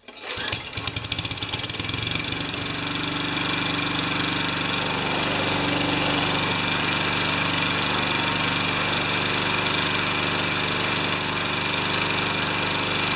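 Tecumseh lawn mower engine pull-started after priming, catching within the first second and then running steadily. The engine has just been tuned up: fresh oil, cleaned foam air filter, cleaned spark plug and new gas.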